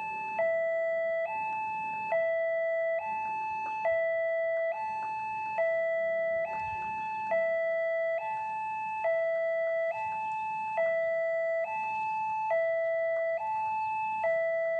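Level crossing warning alarm sounding: an electronic two-tone chime alternating high and low, each note lasting a little under a second, repeating steadily. It signals an approaching train.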